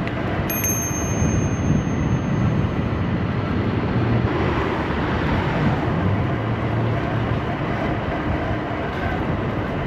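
Steady rush of wind and road rumble while riding an electric scooter in a city bike lane, with a thin high tone for about two seconds near the start.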